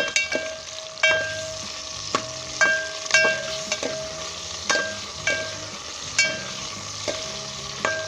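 Boneless chicken sizzling as it fries in hot vegetable ghee in a metal cooking pot, stirred with a metal spoon. The spoon knocks against the pot about a dozen times, and each knock rings briefly.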